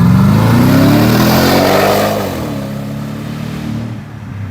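Porsche Cayenne Turbo's twin-turbo V8, with its muffler deleted, accelerating with a loud, rising exhaust note. About two seconds in the pitch drops and the engine runs on at a lower, steady pitch.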